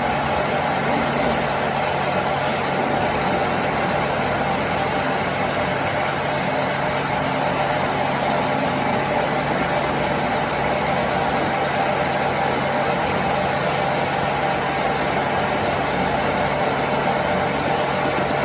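A machine running steadily with a constant low hum and no change in speed.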